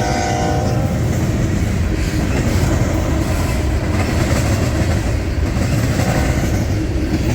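Canadian National manifest freight train passing close by. Its locomotive horn sounds a chord that stops a little under a second in, then the freight cars rumble past with their wheels clattering over the rails.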